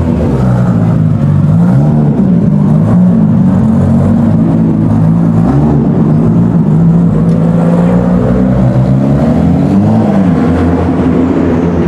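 Supercar engines running and revving in a tunnel, the pitch rising and falling with throttle blips, then a longer rising rev in the second half.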